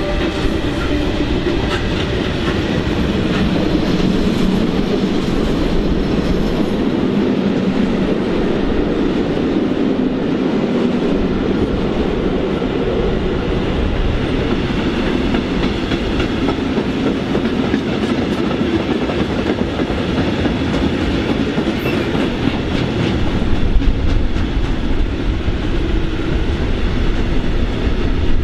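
A train running past on the rails, its wheels and cars making a steady rolling noise throughout, a little louder in the last few seconds.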